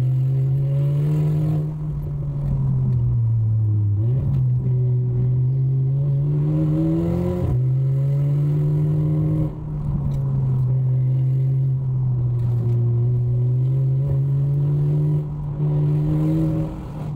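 Car engine droning under hard driving, heard from inside the cabin, its pitch climbing and dropping several times as the throttle and gears change. It is held short of high revs, which the driver puts down to a small problem with the car.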